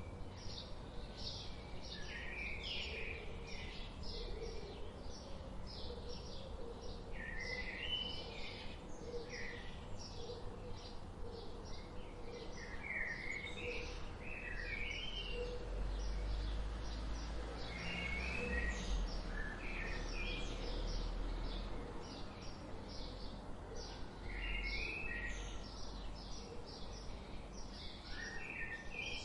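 Several small birds chirping: a dense run of short, high chirps, several a second, with warbled phrases lower down every few seconds. A low rumble lies underneath and grows louder about halfway through.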